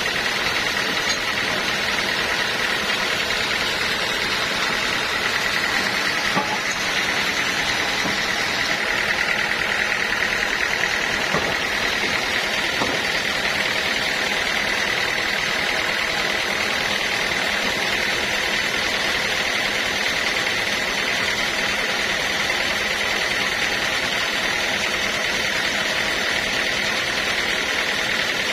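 Sawmill machinery running steadily, a constant mechanical noise with a high, even whine.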